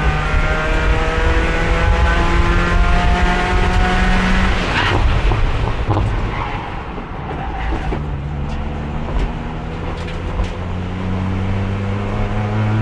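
Race car engine pulling under load in fourth gear, its note climbing slowly, held in that one gear because the transmission has lost third and won't shift at speed. About five seconds in the engine note breaks off into tyre and road noise and eases, a few sharp knocks follow, and then the engine pulls again with its pitch slowly rising.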